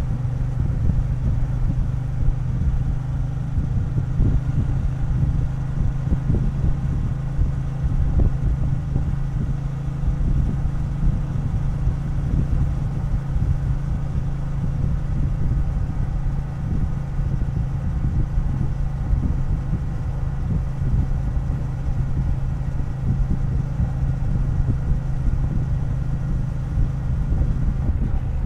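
Triumph Bonneville T120 parallel-twin engine idling, its note steady and unchanging.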